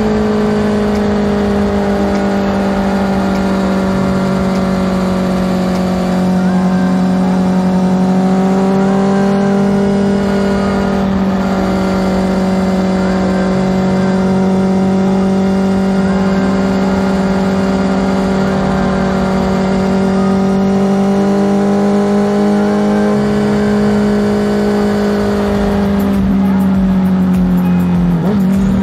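Honda CBR650R's inline-four engine running at a steady cruise. The pitch holds fairly even, with small dips and rises, then drops briefly near the end.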